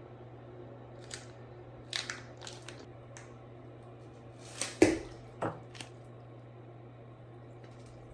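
A few short clicks, taps and rustles of small objects being handled, the loudest a knock about five seconds in, over a steady low hum.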